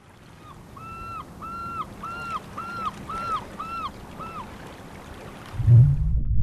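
A bird calls about eight times in a row, each call a short arched cry, over a steady hiss that fades in. About five and a half seconds in, a loud deep rumble sets in.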